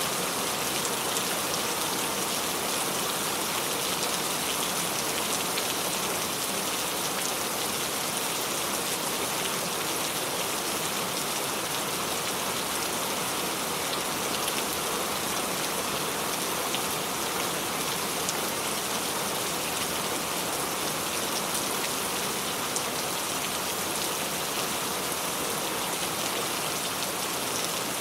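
Steady rain falling, an even hiss with fine scattered drop patter and no change in intensity.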